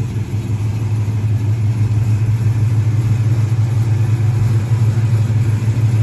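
1970 Dodge Charger's 318 V8 idling steadily through headers and true dual exhaust, with an even low rumble.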